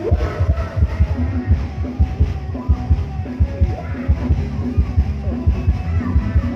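Live band music with a fast, heavy kick-drum beat, about four thumps a second.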